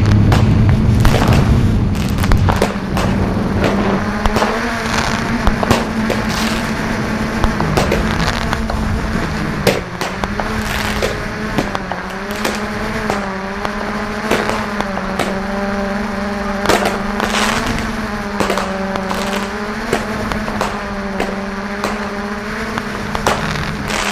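Fireworks bursting and cracking again and again over the steady hum of a quadcopter drone's propellers, which wavers a little in pitch.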